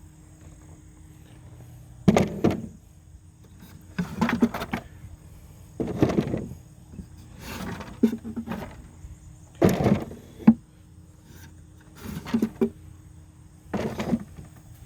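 Wax-dipped wooden beehive parts being handled: a series of about eight short knocks and scrapes of wood, roughly one every two seconds, over a faint steady hum.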